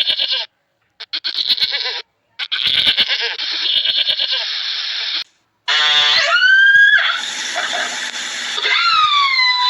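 Goat bleating: several loud calls cut together with abrupt silent gaps. The later calls waver at the start and then slide down and up in pitch.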